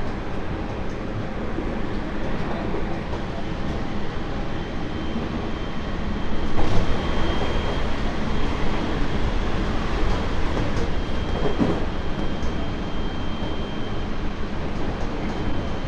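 Tobu 30000 series electric train running, heard inside its motor car (Hitachi IGBT-VVVF drive): a steady rumble of wheels on rails, a little louder from about six seconds in, with a thin high whine from about seven seconds in to about fourteen.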